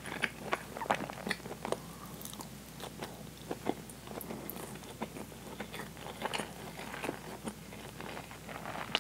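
Close-miked chewing of a mouthful of steamed white rice: many short mouth clicks, thick in the first two seconds, sparser in the middle and thicker again about six seconds in.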